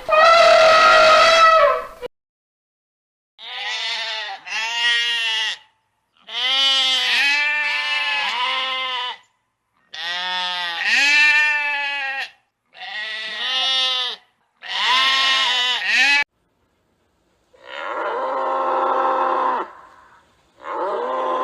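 Sheep bleating: a series of wavering bleats in short groups, then two longer, flatter, lower calls near the end. A loud, steady held tone from another source cuts off about two seconds in.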